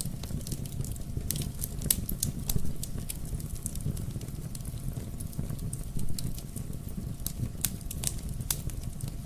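Wood fire in a fireplace crackling: irregular sharp pops and snaps over a steady low rumble of the flames, with a few louder pops.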